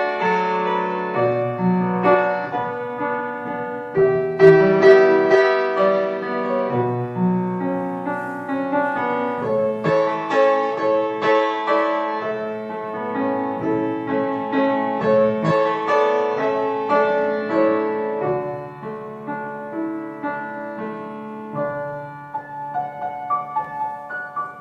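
Slow ambient piano music, sustained notes ringing over one another, fading gradually in the last several seconds.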